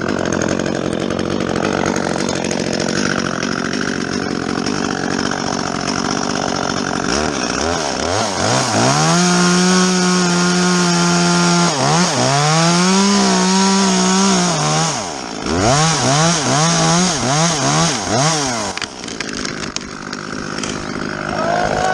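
Chainsaw cutting through the top of a large fir tree, running steadily under load, then revving up and down several times as the cut finishes. Its chain is dull, by the uploader's own account.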